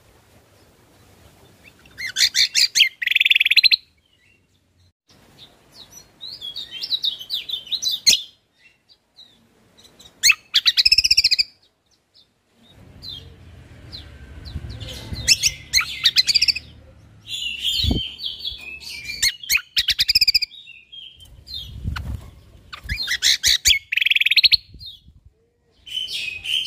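Cucak kombo (kecial kombok) singing in short, rapid bursts of chirps and trills, about seven phrases with brief pauses between them. A faint low rumble and a couple of dull thumps sit under the song in the middle.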